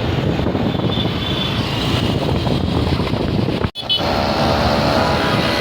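Steady road and wind noise from riding in a moving vehicle on a highway, with wind rushing over the microphone. It breaks off for an instant about two-thirds of the way through.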